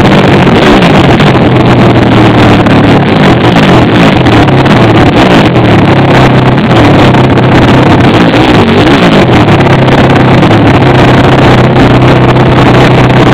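Pit bike engine running loud and overloaded, its pitch rising and falling as the throttle is worked.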